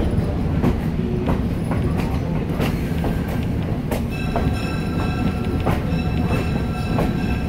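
Heritage passenger train rolling along, heard from inside a coach: a steady rumble of wheels on rail with irregular clicks over the rail joints. A thin high ringing sets in about four seconds in.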